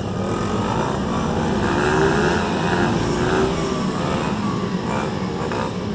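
Several small single-cylinder pit bike engines running at high revs during a race, with wavering pitch as the riders work the throttles. The sound swells to its loudest about two seconds in, then eases off.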